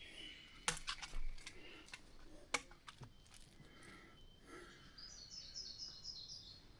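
Birds calling, with a quick run of high, stepped chirps about five seconds in. A few sharp clicks sound in the first three seconds.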